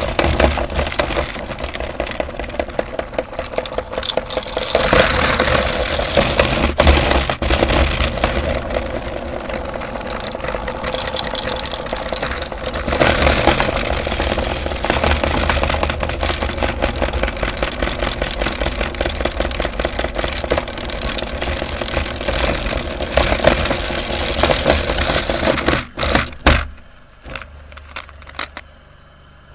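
Electric meat grinder running under load, crushing hard candy: a steady motor hum with dense crackling and scraping. The sound falls away sharply near the end as the grinding stops.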